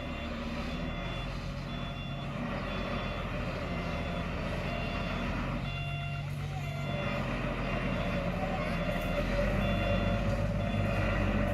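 Heavy machine's reversing alarm beeping at a steady repeating rhythm over a running diesel engine, which grows louder toward the end.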